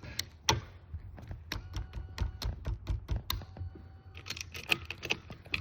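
A string of irregular sharp clicks and knocks over a steady low hum.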